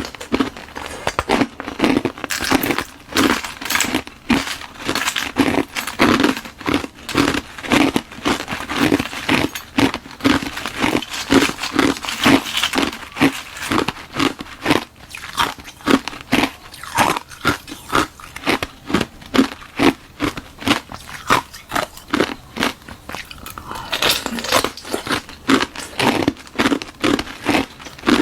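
Close-miked crunching and chewing of ice: a hollow balloon-frozen ice shell filled with frozen milk tea, chewed in a steady rhythm of about two crunches a second.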